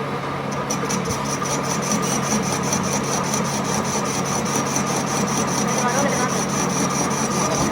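A workshop machine running with a steady hum and a fast, even ticking.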